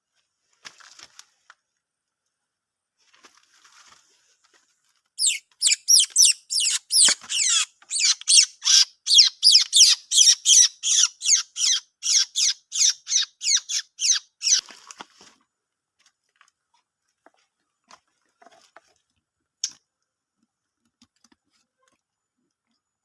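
A bird calling: a fast run of sharp, high chirps, each sweeping downward, about three a second, starting about five seconds in and lasting about ten seconds, with a few fainter chirps before and after.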